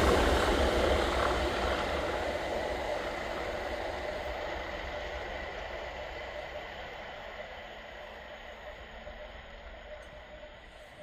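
A passing train receding, its rumble fading away steadily.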